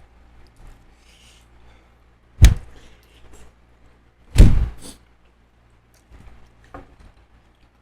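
Two loud thumps about two seconds apart, the second with a short crackly tail, among faint scattered eating noises.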